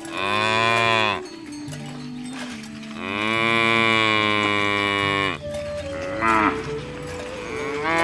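Cattle mooing: a short moo, then a long moo of about two seconds, a brief third call, and another moo starting near the end, each falling in pitch as it fades.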